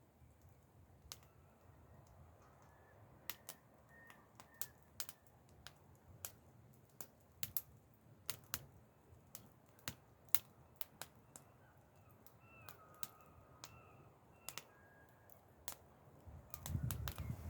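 Wood campfire crackling with sharp, irregular pops and snaps, with faint bird calls behind it. A louder low rustle comes in near the end.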